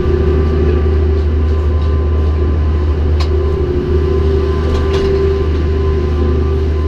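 Steady low mechanical rumble with a constant hum, unchanging throughout, with a few faint clicks.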